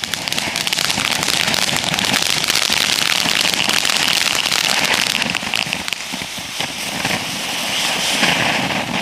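Neon Jelly Beans ground fountain firework burning, a loud steady hissing spray with dense crackling; it eases a little about two-thirds of the way through, then swells again.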